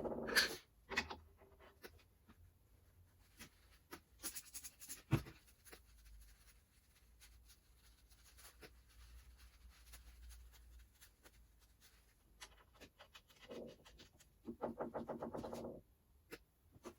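Quiet workshop handling of parts and tools: scattered clicks, knocks and scraping, with a short buzz twice near the end.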